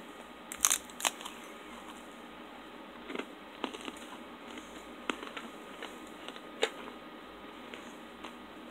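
A cracker spread with peanut butter being chewed: a few scattered, sharp crunches with short gaps between them.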